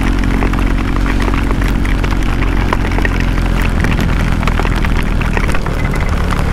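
KTM Duke 390's single-cylinder engine running on the move with wind rush, its note shifting slightly about four seconds in. Many sharp raindrop ticks hit the camera in heavy rain.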